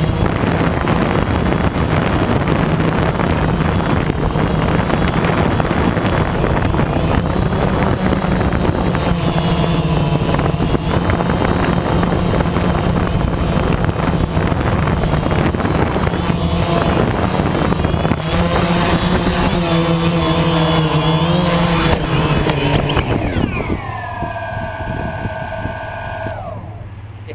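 A motor vehicle running with loud road and wind noise and a steady low hum; about three-quarters of the way through the hum stops, falling whining tones slide down and the noise drops away as it slows.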